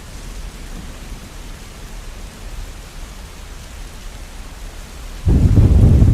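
Steady falling rain, and about five seconds in a loud, low rumble of thunder sets in suddenly.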